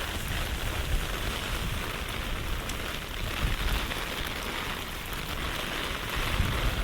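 Steady rain falling on a city street, an even hiss, with a low rumble swelling near the end.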